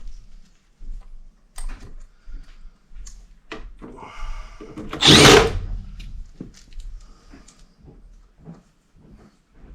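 Cordless power driver running briefly, about five seconds in, to drive a screw, among scattered knocks and clicks of parts and tools being handled.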